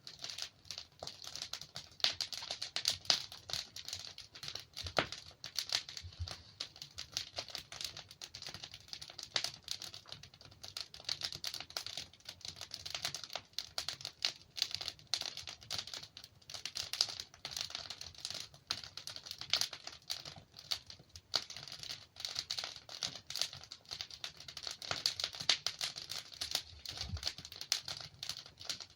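Logs burning in a fireplace, crackling steadily with dense small pops and one sharper pop about five seconds in.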